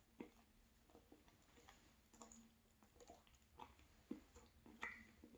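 Near silence with faint, scattered soft clicks of quiet chewing on a pastry.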